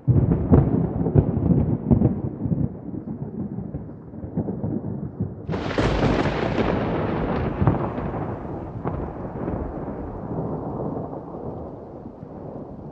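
Thunder: a sudden crack and crackling rumble at the start, then a second, sharper crash about five and a half seconds in, its rumble slowly dying away.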